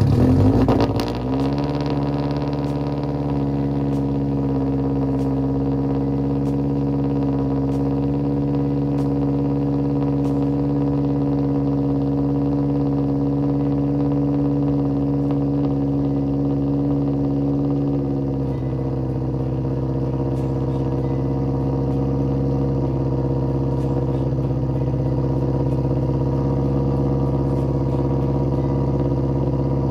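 Turbocharged Toyota GT86's flat-four engine just started, running through its raspy straight-piped exhaust: the revs sit high for a second or two after it catches, then settle into a steady idle that steps down slightly about eighteen seconds in.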